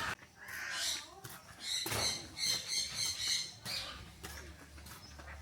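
Birds chirping: a quick run of short, high-pitched calls about two seconds in, with fainter chirps before and after.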